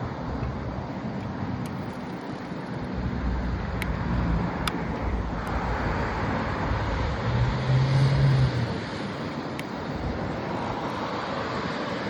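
Wind rushing over the microphone during a bicycle ride, with road traffic; a low engine hum swells briefly about two thirds of the way through, as a motor vehicle passes.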